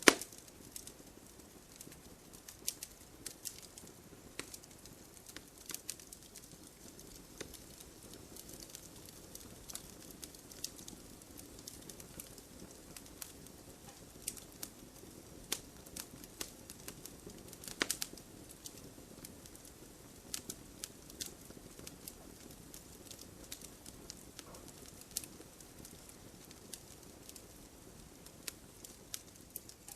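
Wood fire crackling in an open fireplace: irregular sharp pops and snaps over a faint steady low hiss of the flames, with a loud pop right at the start and another about 18 seconds in.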